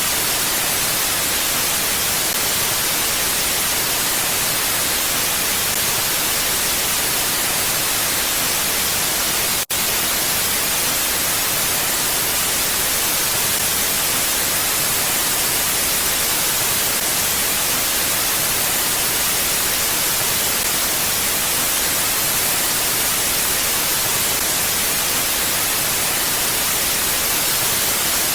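Steady, even hiss of wind noise, brightest in the high range, with no gusts or other sounds; it cuts out for a split second about ten seconds in.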